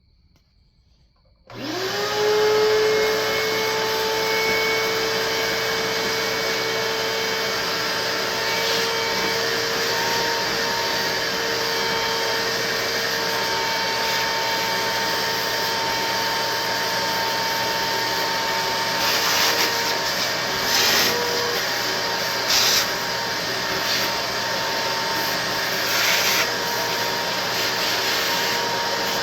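A small electric motor switches on about a second and a half in, spins up within a fraction of a second to a steady whine with a rushing hiss, and runs on. Several short, louder bursts of hiss come in the second half.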